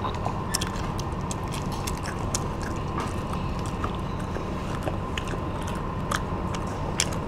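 Children biting and chewing crispy battered deep-fried shrimp, with many short, sharp crunches scattered throughout. A steady low hum runs underneath.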